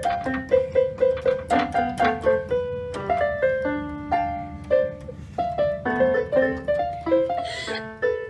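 Piano music: a melody of quick, separate notes.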